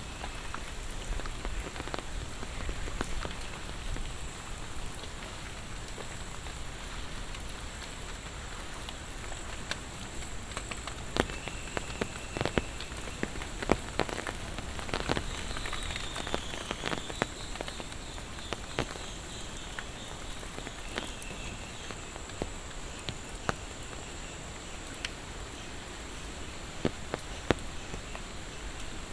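Steady monsoon rain falling, with scattered sharp drops tapping close by, a cluster of louder ones in the middle.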